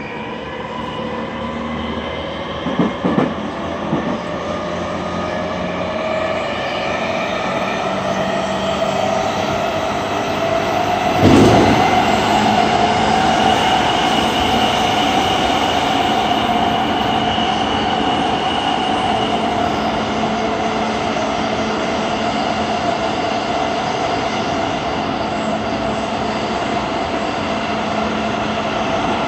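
Cabin running noise of a JR East E231 series 800 commuter train under way: a steady rumble of wheels on rail with a whine that rises slowly in pitch over the first dozen seconds, then holds. There are a few clacks about three seconds in and one loud thump about eleven seconds in.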